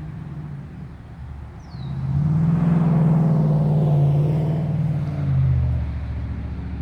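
Motor vehicle engine hum and tyre noise that swells about two seconds in, holds for a few seconds and then fades.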